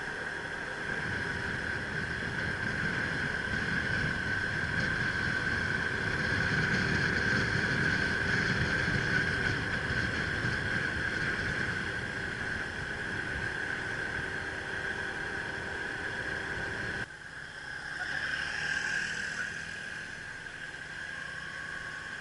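Motorbike riding: engine running under rumbling wind noise on the microphone, with a steady high whine over it. It cuts suddenly to a quieter stretch near the end.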